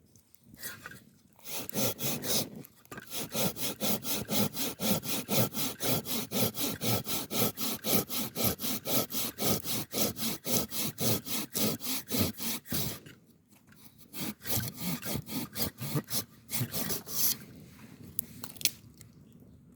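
Hand saw cutting through wood in quick, even back-and-forth strokes, about three or four a second. It stops briefly about two-thirds of the way through, then makes a shorter second run.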